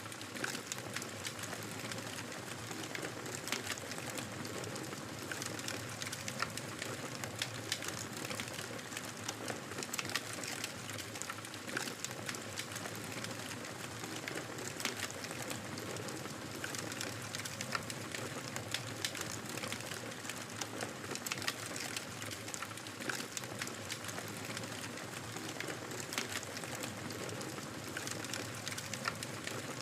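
Wood fire crackling steadily, with frequent sharp pops and snaps over a constant soft hiss.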